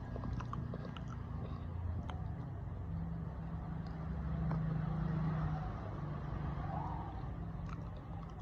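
Low, steady hum of a running engine, swelling louder about halfway through and then easing off, with a few faint clicks.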